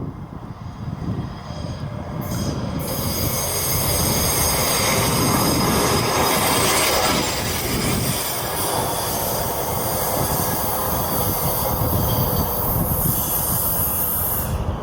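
Intermodal freight train's cars rolling past, their steel wheels squealing high and steady from about two seconds in until the squeal cuts off near the end.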